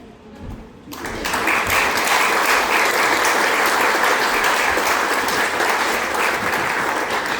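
Theatre audience applauding: many hands clapping, swelling in about a second in and holding loud and steady, starting to thin near the end.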